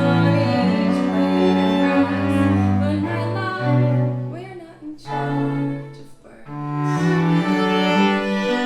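Instrumental music of bowed strings, with a cello playing long low notes beneath sustained chords. The music softens briefly twice, about halfway through and again a couple of seconds later.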